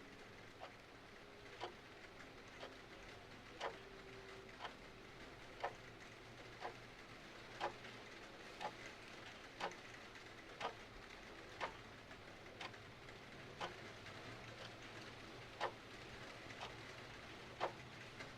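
Clock ticking steadily, about once a second, over a faint steady hiss of rain.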